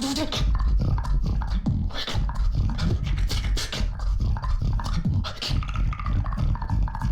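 Beatboxing: a dense special-sound beat with a heavy sub bass under rapid sharp clicks and snare-like hits, with short pitched tones over the top in the second half.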